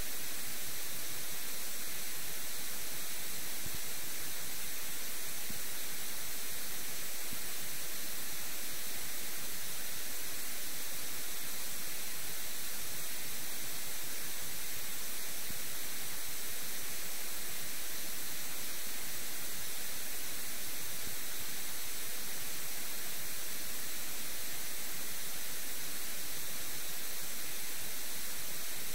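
A steady, unchanging hiss like static or white noise, even across low and high pitches, with no separate sounds in it.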